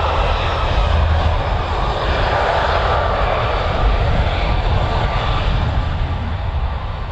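Jet airliner's engines, loud and steady, slowly easing off near the end.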